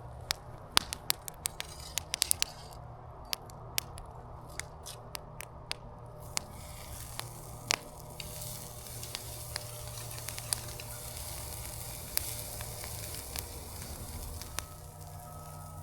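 Food sizzling on a campfire grill over wood coals, with the fire crackling and popping sharply throughout; the sizzling hiss builds up about halfway through.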